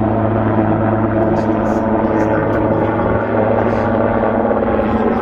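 Aircraft flying a display, a steady, loud engine drone with a constant low hum.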